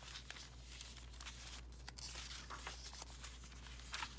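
Paper rustling and crinkling as the pages of a handmade junk journal of mixed paper are turned and handled, with a sharper crackle near the end.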